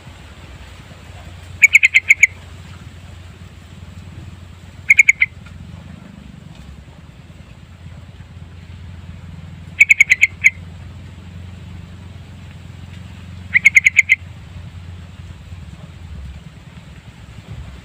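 Sooty-headed bulbul (trucukan) calling: four short bursts of quick repeated notes, a few seconds apart, over a steady low hum.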